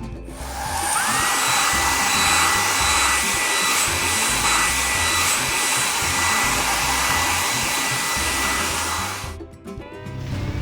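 Cartoon car-wash blower sound effect: a steady rush of air with a motor whine that rises quickly, then holds, and cuts off abruptly near the end. Background music plays underneath.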